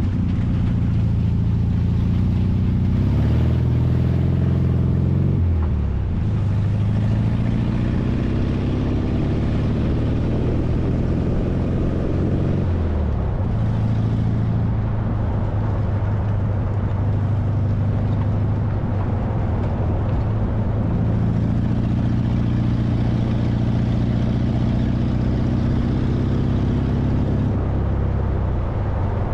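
Air-cooled flat-four engine of a 1968 VW Baja Bug running under way, its pitch climbing and then falling back sharply about five and thirteen seconds in. It then holds steady for a long stretch before dropping again near the end.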